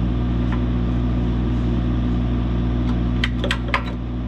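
An engine idling steadily with a low, even hum. About three seconds in, a quick cluster of sharp metal knocks and clinks sounds over it as a heavy engine block is worked onto its mounts.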